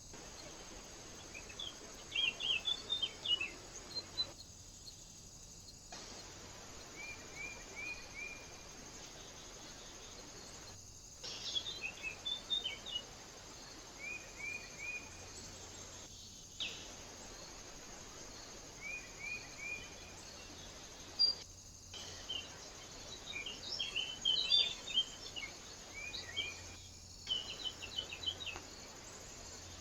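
Small birds calling and twittering: a short phrase of three or four quick falling chirps repeats every few seconds, with busier bursts of twittering in between, over a steady hiss from a trail camera's microphone. The sound drops out briefly several times where separate recordings are joined.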